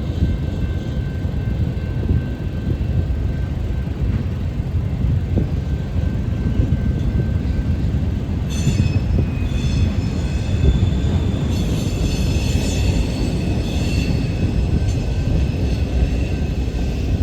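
Freight train rolling past with a steady low rumble of wheels on rail. From about halfway through, high-pitched wheel squeal comes and goes over the rumble.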